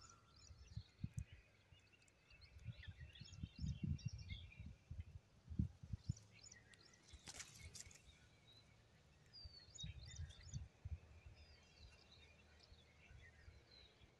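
Faint, scattered high chirps of small birds over irregular low rumbling thumps, like wind buffeting the microphone.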